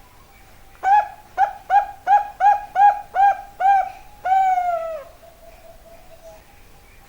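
Zebra dove (Bangkok perkutut) singing one phrase: a quick run of about eight short, clipped coo notes, ending in one longer note that falls in pitch.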